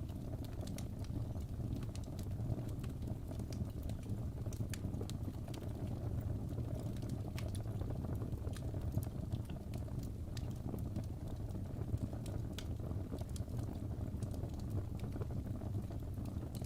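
Wood fire burning in a fireplace: a steady low rumble of the flames with scattered irregular crackles and pops from the burning logs.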